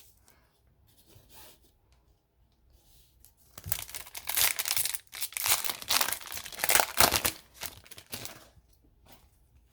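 A hockey card pack's wrapper being torn open and crinkled. There is faint handling at first, then about three and a half seconds in a run of tearing and crinkling that lasts around five seconds.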